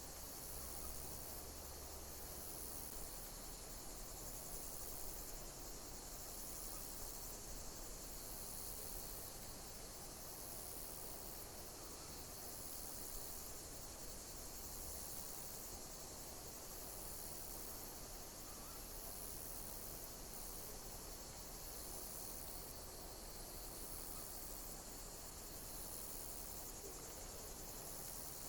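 Insects chirping: a continuous high shrill chorus, with a high-pitched call repeating about every second and a half.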